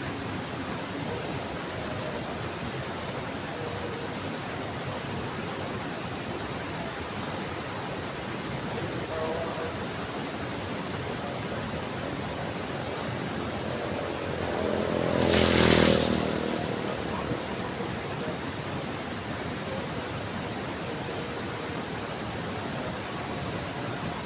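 Heavy rain falling steadily. About fifteen seconds in, a louder rushing sound swells and fades over roughly two seconds.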